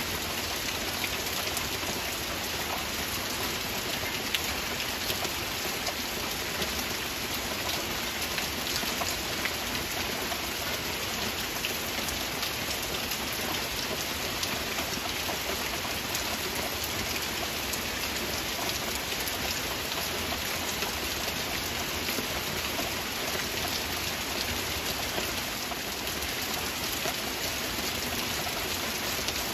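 Steady heavy rain: a dense, even hiss of falling drops, with many small sharp drop ticks.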